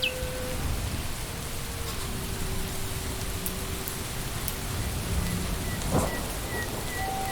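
Steady rain falling on leaves and ground, with a low rumble underneath and a few faint, held high tones over it.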